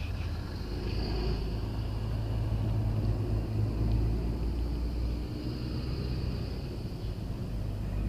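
Motorcycle engine running steadily, a continuous low drone.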